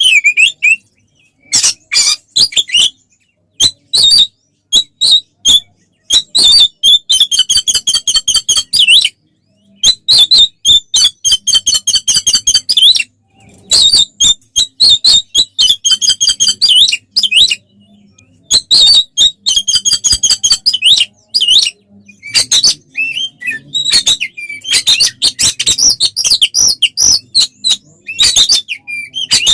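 Oriental magpie-robin (kacer) singing loudly in full, fighting-style song. It gives phrases of fast, varied whistled notes and dense rattling trills, separated by short pauses.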